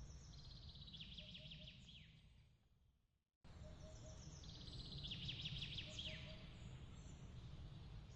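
A songbird singing a quick trilling phrase with short chirps over a steady low rumble of background noise, with faint soft triple notes lower down. About three seconds in the sound fades out to silence, then the same birdsong and rumble start again at once, as an ambience loop restarting.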